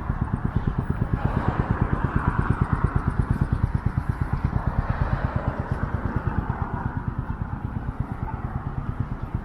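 City street traffic: a car passes, its tyre and engine noise swelling and fading in the first few seconds, over a steady low, fast throbbing.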